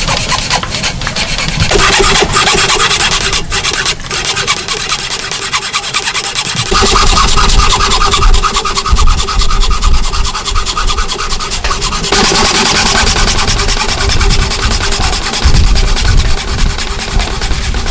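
Hand tools working wood: a dense run of rubbing and rasping strokes. The character of the sound shifts about two, seven and twelve seconds in.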